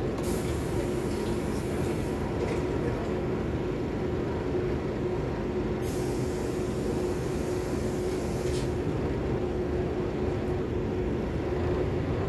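Scania K280UB city bus heard from inside the cabin while under way: a steady engine and road rumble with a constant whine running through it.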